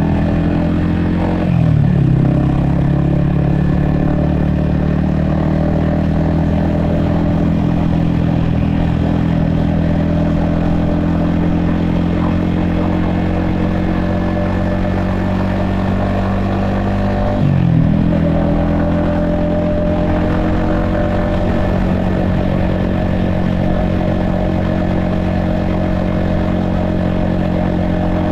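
Yamaha XSR155's 155cc single-cylinder engine running steadily under way, recorded from a helmet-mounted camera. The engine note dips sharply and recovers twice, about two seconds in and about eighteen seconds in, at gear changes, and otherwise holds steady or climbs slowly.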